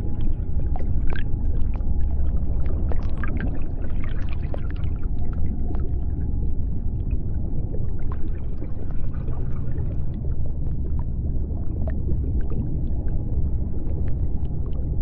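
Underwater ambience of the deep sea: a steady deep rumble with a faint held tone and scattered small clicks and crackles.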